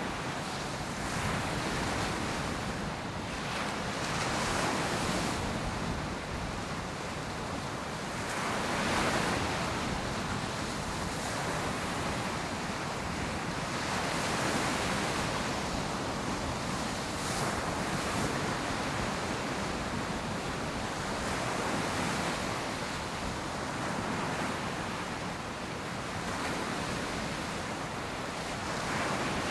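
Ocean surf breaking on a beach: a steady wash of waves that swells as each one breaks, every few seconds, with some wind on the microphone.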